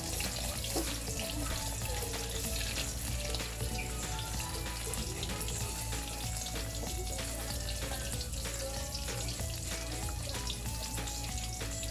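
Chicken burger patties frying with a steady sizzle, with background music playing.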